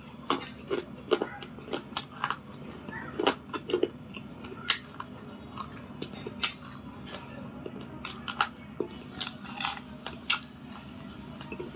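Bites and chews of Butter Grey Nakumat and slate pencil: irregular sharp crunches and cracks, about two a second, over a faint steady low hum.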